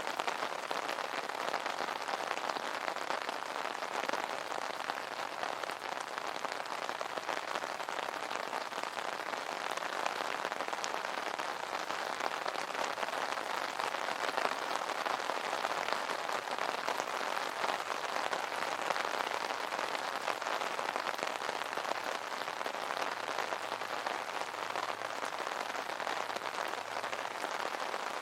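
Steady rain pattering on an umbrella, a dense even hiss of drops with fine ticks of individual drops striking the canopy.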